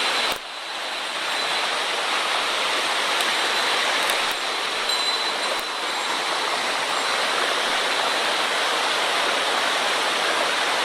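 Steady rush of a mountain stream running high after a typhoon, water pouring over rocks. A single sharp knock sounds just after the start.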